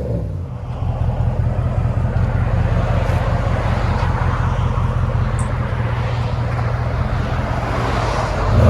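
Ram 1500's 5.7L Hemi V8 running through a resonator-deleted dual exhaust with a B2 Fabrication muffler, a deep steady drone held at an even engine speed, with a rev starting right at the end.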